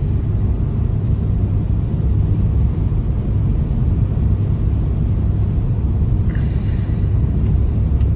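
A loud, steady low rumble without a clear pitch, which cuts off abruptly at the end.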